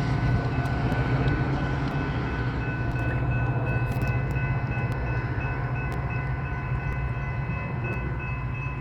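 Metra commuter train running past, its EMD F40PH diesel locomotive pushing at the rear: a steady low engine drone with a few steady high-pitched tones over it, easing slightly toward the end.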